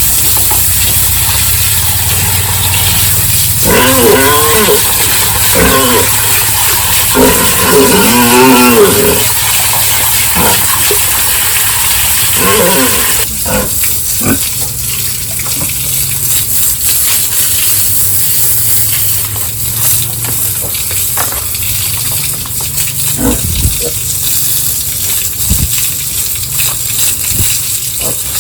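Pigs squealing: several long, wavering calls between about four and thirteen seconds in, over a steady low hum and hiss.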